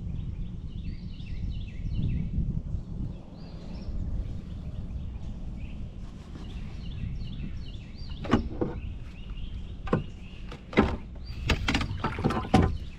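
Wind rumbling on the microphone while a small bird sings a series of quick chirping notes through the first half. From about eight seconds in, a run of sharp knocks and clatter, the loudest sounds here, comes quicker toward the end.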